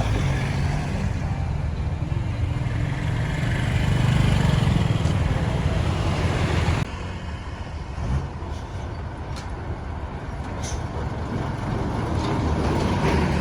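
Road traffic noise with a heavy vehicle's engine running close by. About seven seconds in it drops suddenly to quieter traffic noise with a few faint clicks.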